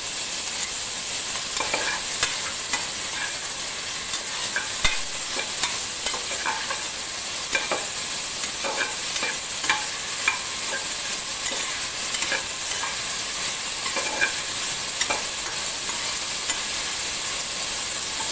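Chopped vegetables and mint sizzling in oil in an aluminium pressure cooker, a steady frying hiss, while a spatula stirs them, scraping and knocking irregularly against the pot's metal sides.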